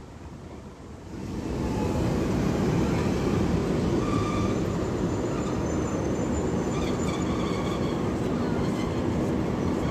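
Electric trains running through a station: a steady rail rumble that swells about a second in and holds, with faint high whines above it.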